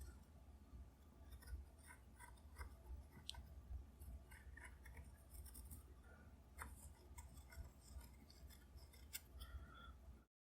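Faint scratching and small clicks of a pencil tracing around the butt plate tang on the walnut stock blank, over a low room hum; the sound cuts to dead silence near the end.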